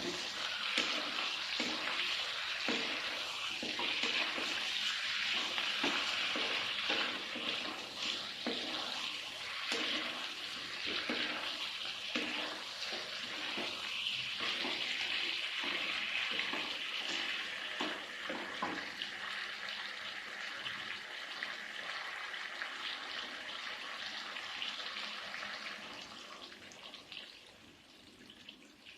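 Chicken sizzling in a frying pan while a spatula stirs it, scraping and knocking against the pan again and again. The sizzle fades away over the last few seconds.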